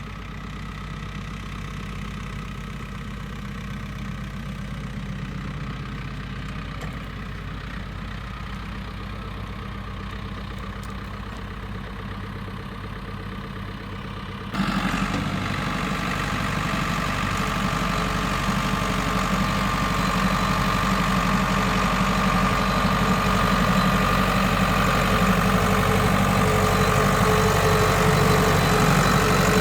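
Ford 6600 tractor's three-cylinder diesel engine running steadily. The sound jumps suddenly louder and brighter about halfway through, then grows steadily louder toward the end.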